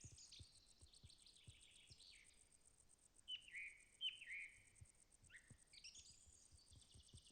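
Faint birdsong: a songbird's high chirps and short phrases, with two sharper calls about three and four seconds in.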